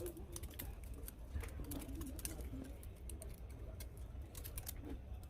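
Irregular light clicks and taps of small parts being handled, over a steady low hum.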